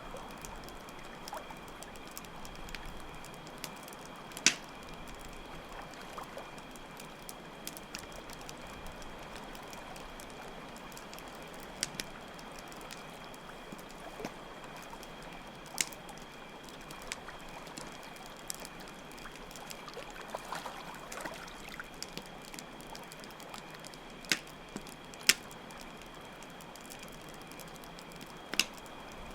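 Campfire crackling with a few sharp, irregular pops over a steady bed of running water and a continuous high cricket trill.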